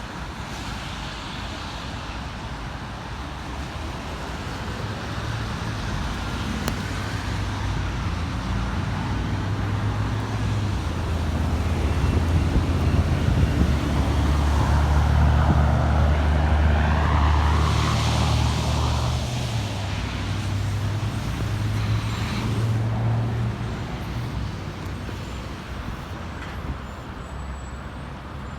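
A heavy road vehicle's engine drones low and steady, growing louder as it approaches. It is loudest about halfway through, with a swell of tyre hiss as it passes, then fades away.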